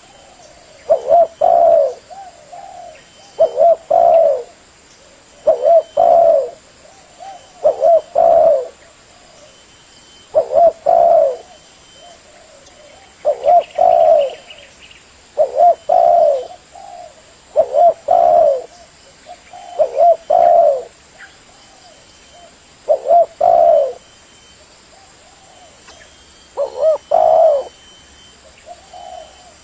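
Spotted dove (tekukur) cooing: a repeated phrase of a few low hooting notes, about every two seconds, over and over.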